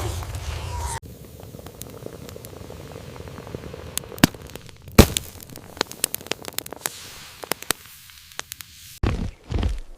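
Wildfire burning through vegetation: a steady hiss with scattered sharp crackles and pops, the loudest about halfway through.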